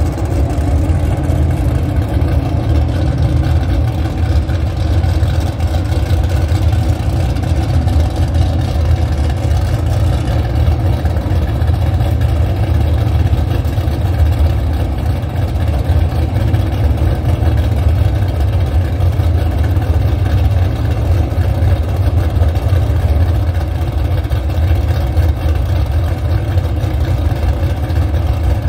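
A drag car's engine idling steadily and loud.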